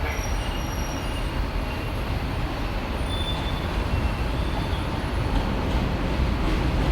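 R42 subway train running on the track with a steady rumble, with a few brief, faint high-pitched wheel squeals over it. It grows a little louder toward the end.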